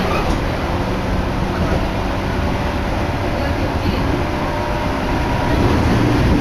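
Electric commuter train running at speed, heard from inside the carriage: a steady rumble of wheels on rail that grows a little louder near the end.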